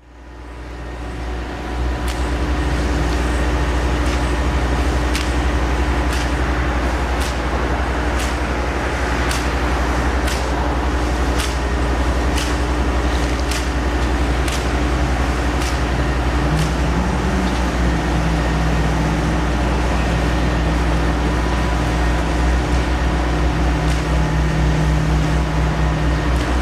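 A large engine or machine running steadily with a deep rumble and a steady hum. It fades in over the first two seconds. Sharp ticks come about once a second through the first half, and a second, lower hum joins a little past the middle.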